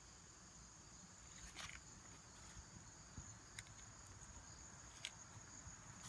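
Near silence outdoors, with faint steady high-pitched chirring of crickets and a few faint clicks.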